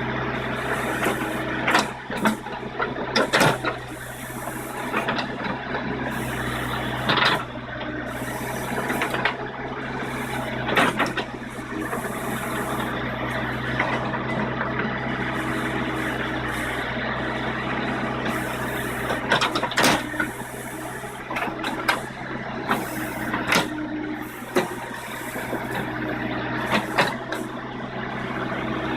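Diesel engine of a JCB 214 Series 2 backhoe loader running steadily while it works earth, with sharp metallic clanks and knocks at irregular intervals, about a dozen in all.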